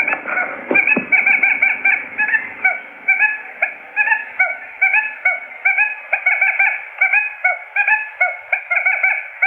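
Quail lure call for trapping: a dense, rapid run of short chirps, each rising at the end, several a second and overlapping.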